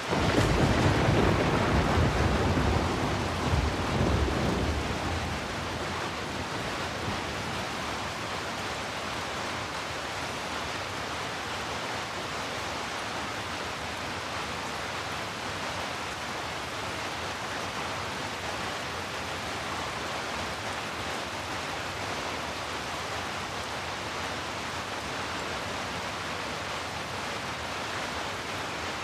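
Steady rain. A low rumble of thunder swells at the start and dies away after about five seconds.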